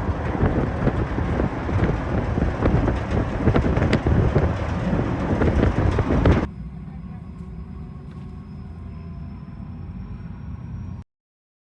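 Wind buffeting the microphone, a loud uneven rumble. About six seconds in it drops to a much quieter low rumble, then cuts off abruptly near the end.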